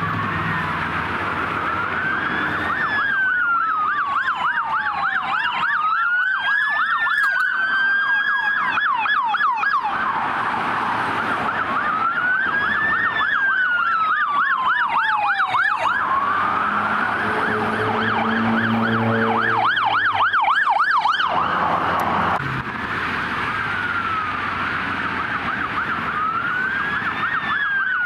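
Several police car sirens responding code 3, overlapping as they pass, switching between a slow rising-and-falling wail and a fast yelp.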